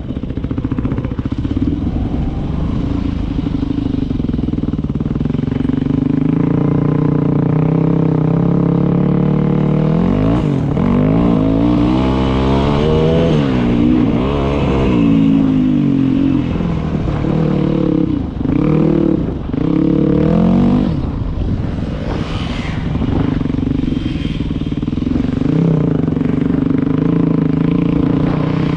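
Dirt bike engine running steadily, then revved up and down over and over from about ten seconds in to around twenty seconds, its pitch rising and falling quickly, before settling back to a steady run.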